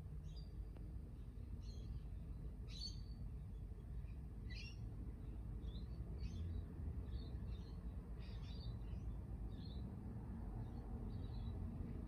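Small birds chirping in short, scattered calls, roughly one a second, over a steady low rumble.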